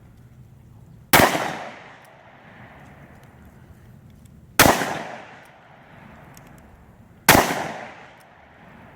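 Three gunshots from a handgun, about three seconds apart, each a sharp crack followed by a short fading echo.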